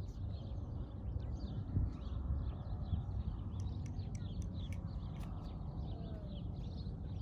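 Many small birds chirping and twittering continuously, over a steady low rumble.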